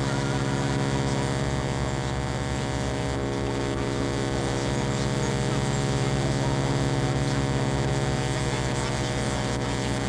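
A steady low hum with many even overtones, unchanging throughout.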